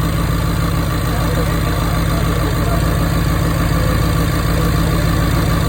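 Rebuilt Jaguar XF 5.0-litre supercharged V8 idling steadily on its first run after the rebuild, with a leaking exhaust.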